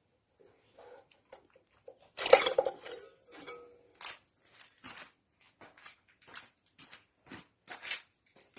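Metal tools and engine parts being handled during engine dismantling: scattered knocks and clicks, with one loud metallic clatter about two seconds in that rings briefly.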